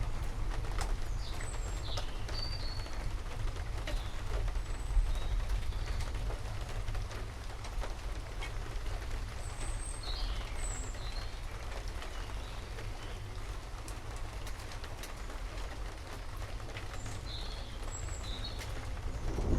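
Steady rain with scattered pattering drops over a low rumble, while forest birds give short high chirps now and then. A thunder rumble starts right at the very end.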